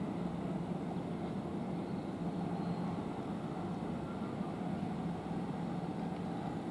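Steady low rumble and hum of railway station background, with a faint steady electrical hum, typical of electric trains and equipment at a mainline platform.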